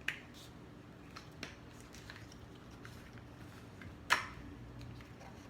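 Spice container being handled while ground ginger is shaken over the food: a few light clicks and taps, the loudest about four seconds in.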